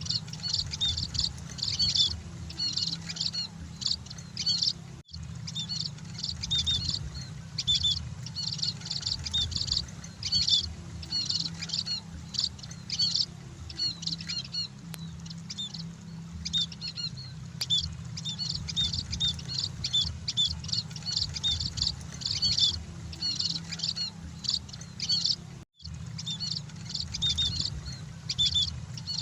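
Flock of emprit (munias) chirping: dense, fast, high-pitched twittering of many short calls overlapping, over a steady low hum. The sound cuts out for an instant about five seconds in and again near the end.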